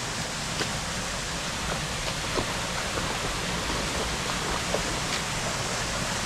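Steady rush of falling water from a waterfall or stream, with faint scattered ticks like drips or splashes.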